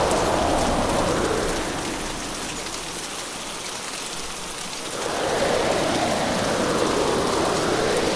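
Hurricane rain and wind: a steady rushing downpour that eases for a few seconds in the middle, then swells back abruptly about five seconds in.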